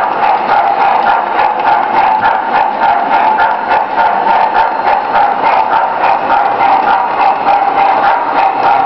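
O gauge model train running along three-rail track, heard from a car in the train: a steady clatter of wheels on rail with a constant hum.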